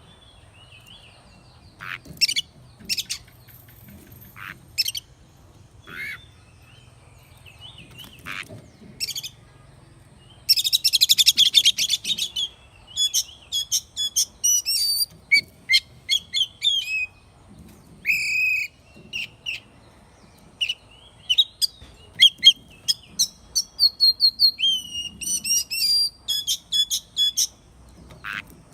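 Oriental magpie-robin singing: scattered sharp short notes, a harsh rapid rattle about ten seconds in, then a busy run of varied whistled phrases and trills.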